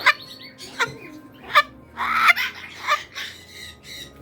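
Parrot giving a run of short, loud squawks about every two-thirds of a second, with one longer call about two seconds in.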